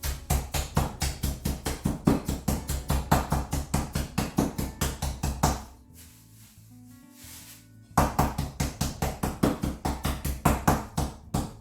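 Chicken pieces under cling film being pounded to tenderize them: rapid repeated knocks, about five a second, in two runs with a pause of about two seconds between. Background music plays throughout.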